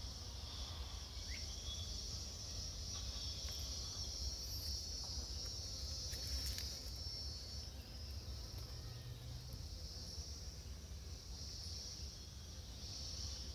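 Insects chirring in a steady high-pitched band, a little louder midway, over a low rumble.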